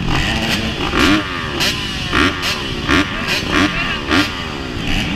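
Several motocross bike engines revving, their pitch repeatedly climbing and dropping, with sharp rev peaks about every half second.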